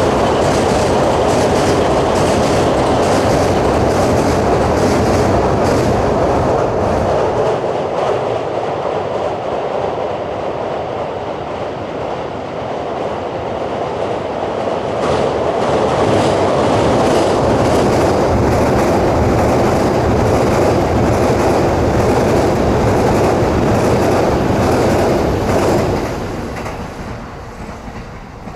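JR East E231-series commuter electric trains crossing a steel truss rail bridge, wheels clattering over rail joints with a deep rumble. The first train's sound eases off, and about halfway through a second train comes on loud, then fades near the end.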